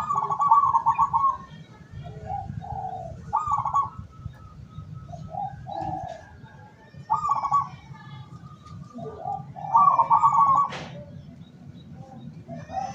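Zebra doves cooing: about four loud phrases of rapid staccato coos, with softer, lower coos between them. A sharp click sounds near the end.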